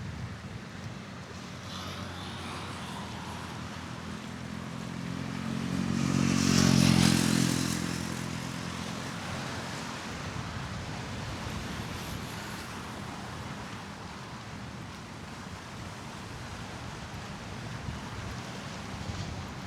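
A motor vehicle drives past, its engine growing louder to a peak about seven seconds in and then fading away, over a steady background hiss.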